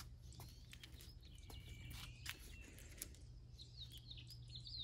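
Quiet outdoor ambience with small birds chirping faintly in short, high twitters and a few light ticks.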